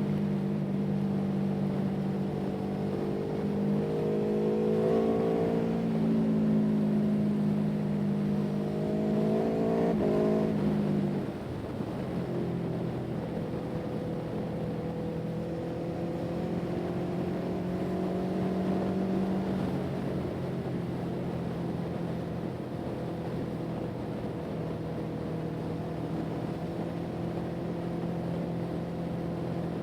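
An engine running, rising in speed twice in the first ten seconds, then easing off at about eleven seconds and running on steadily at lower speed.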